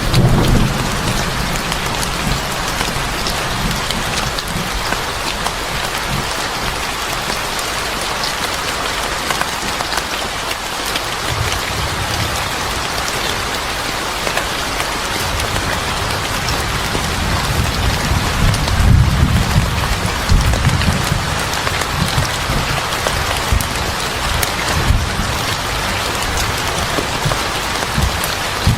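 Steady heavy rain pattering on a surface, with deep rolling thunder rumbling low at the start, again about twelve seconds in, and most strongly around two-thirds of the way through.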